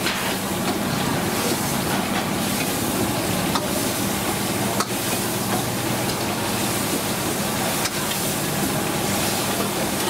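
Food frying on a hot pan with a steady sizzle and hiss, over a continuous low hum, with a few sharp clicks or clatters about a third and half of the way through and again near the end.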